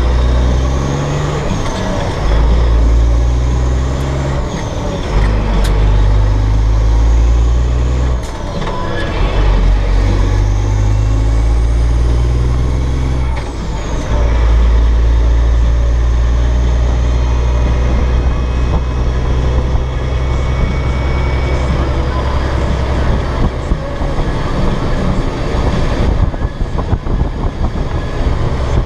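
Cat C15 diesel engine of a dump truck pulling through the gears. The revs climb and drop at each clutchless upshift of the 13-speed Eaton Fuller transmission, three times in the first half, then the engine holds a steady note while cruising.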